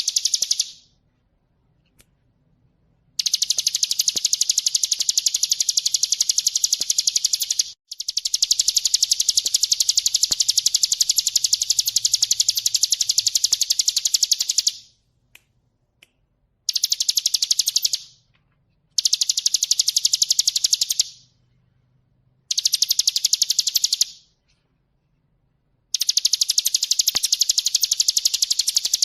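Ciblek gunung, a prinia, singing loud, rapid, high-pitched rattling trills, each run lasting a few seconds and broken by short pauses.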